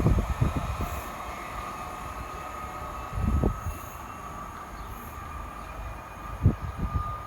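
Train at a station giving a steady high whine, with low rumbling thumps at the start, about three seconds in and again near the end.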